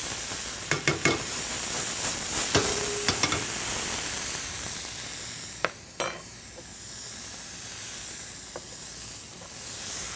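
Diced pancetta sizzling as it crisps in hot vegetable oil in a pan, with a few sharp clicks of a utensil stirring it against the pan.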